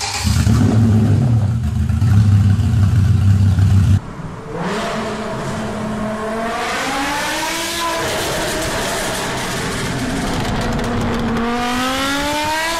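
BMW S85 5.0-litre V10 running steadily with a loud, deep note, cutting off suddenly about four seconds in. Then a BMW E60 M5 with the same V10 accelerates hard, its engine note rising in pitch, breaking off at a gear change and rising again.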